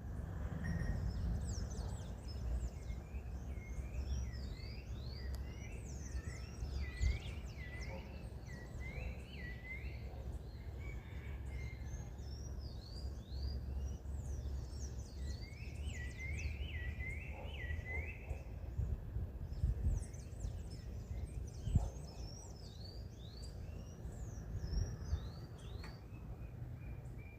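Birds calling in bouts of quick repeated chirps, each a short upward-sweeping note, over a steady low rumble.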